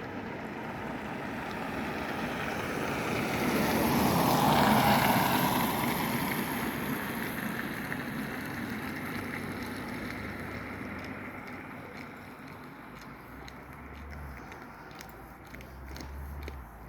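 Passenger train passing a level crossing at speed, a rushing noise that builds to its loudest about four to five seconds in and then slowly dies away as the train recedes.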